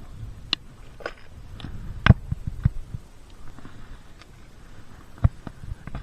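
Scattered clicks, knocks and rustles of close handling, muffled by the camera's waterproof case, with a louder thump about two seconds in and another near the end.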